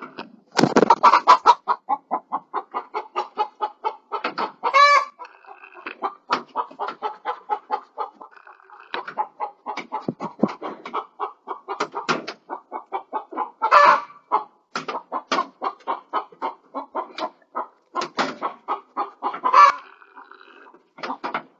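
Hens clucking in a fast run of short clucks, about three or four a second, broken three times by a longer drawn-out squawk: the pattern of a hen's egg song.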